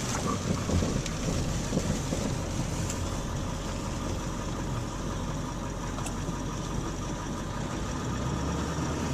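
Car being driven at low speed, its engine and road noise a steady hum.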